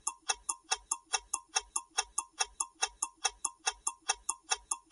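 Ticking clock sound effect of a quiz countdown timer: quick, even ticks at about five a second.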